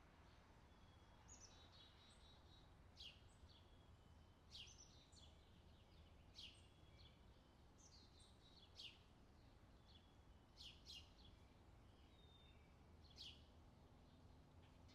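Faint outdoor summer ambience of small birds calling: short high chirps that sweep downward, one every second or two, with a few short trills between them, over a low steady background rumble.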